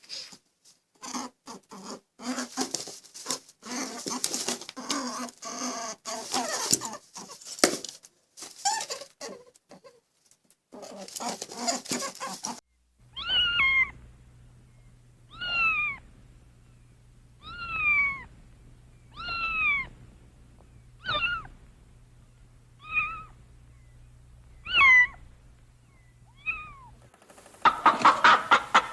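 A domestic cat meowing again and again, about nine separate meows, each falling in pitch, spaced about a second and a half apart. The first half holds rougher, noisier broken sounds before the meows start.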